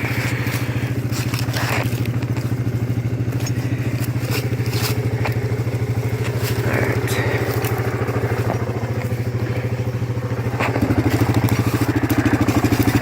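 Four-wheeler (ATV) engine idling steadily, with scattered clicks and scrapes over it; the engine gets a little louder near the end.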